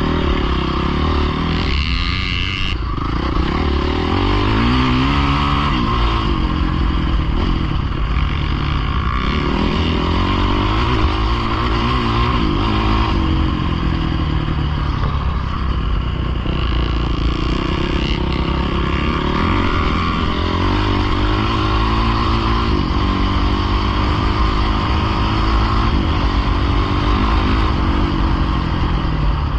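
Pit bike engine being ridden hard, its pitch rising and falling again and again as the rider revs up, shifts and backs off.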